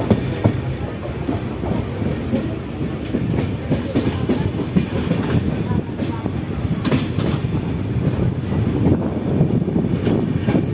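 Passenger train running on the rails: a steady rumble with the clack of wheels over rail joints every so often.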